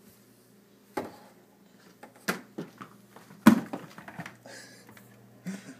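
Items being set down on refrigerator shelves: a few separate sharp knocks and clinks, the loudest about three and a half seconds in.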